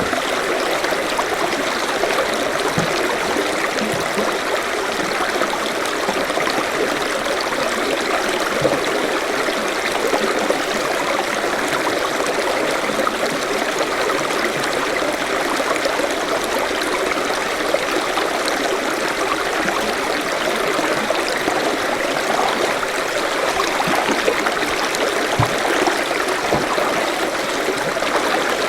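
Forest stream running steadily, water trickling and gurgling over stones.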